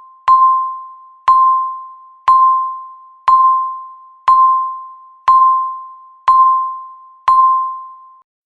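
Countdown timer beeping once a second: eight identical chime-like beeps, each a single clear tone that starts sharply and fades away before the next, counting down the last seconds before the alarm.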